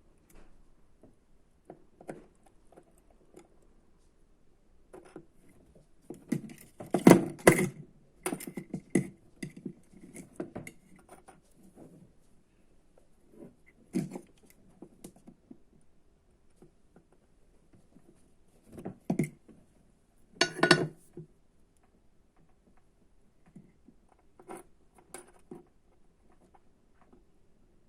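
Clicks, taps and clatter of small tools and electronic parts being handled on a workbench while assembling a kit, in scattered bursts, loudest about seven seconds in and again about twenty seconds in.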